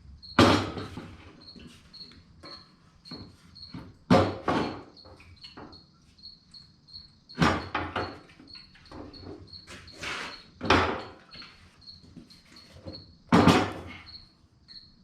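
A cricket chirping steadily in quick even pulses, broken by five or six loud clunks and rattles, a few seconds apart, of something being handled or knocked.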